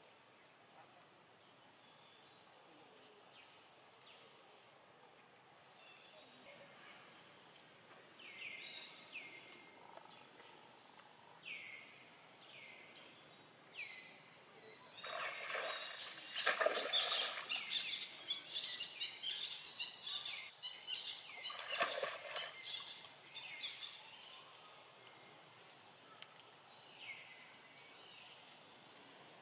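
Birds calling over a steady faint outdoor hiss: short notes that drop in pitch, often in pairs, repeated every second or two. A louder, noisier stretch comes in the middle.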